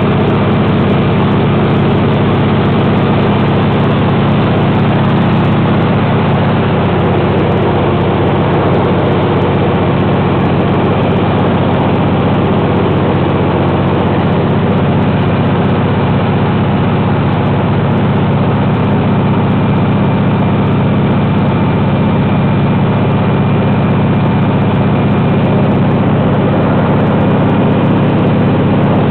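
Steady, loud drone of a propeller warbird's radial engine heard from aboard in flight, an even engine hum with air noise over it and no change in pitch or level.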